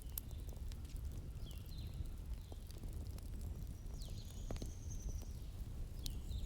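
Wood fire crackling, with scattered sharp pops over a low steady rumble. Small birds chirp in short, quick falling notes, and one longer high whistle comes about four seconds in.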